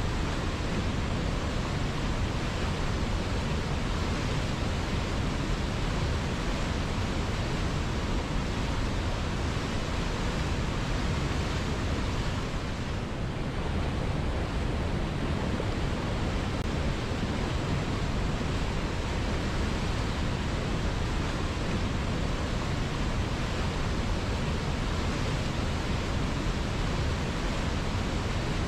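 River water flowing, a steady rushing noise with no breaks. It dips slightly for a moment about halfway through.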